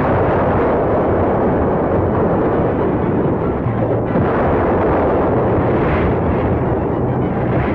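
Loud, continuous rumble of explosions and artillery fire from a battle sound-effects track.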